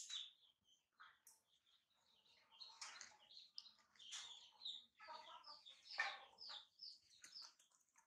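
Faint bird chirps, short and high, repeating over and over, with a few lower calls like chickens clucking.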